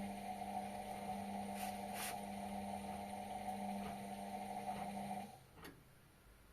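Indesit washing machine giving off a steady electrical hum for about five seconds, which cuts off abruptly and is followed by a click; a few faint ticks are heard during the hum.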